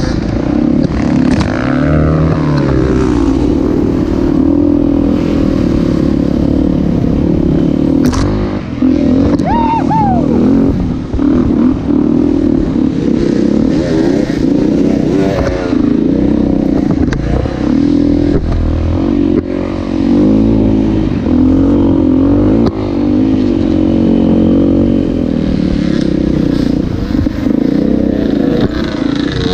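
Motocross bike engines revving, their pitch rising and falling again and again.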